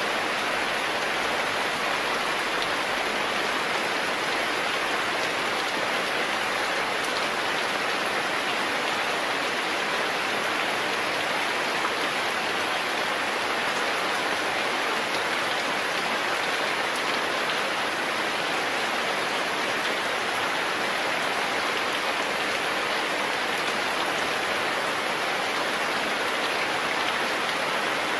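Steady, unbroken rain falling on a surface.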